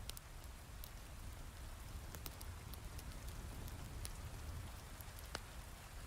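Heavy rain falling steadily, with a low rumble underneath and scattered sharp crackles from a fireplace, one sharper pop about five seconds in.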